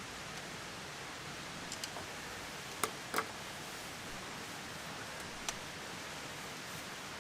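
Steady hiss with a few sharp pops or crackles, the loudest near three seconds in and another about five and a half seconds in.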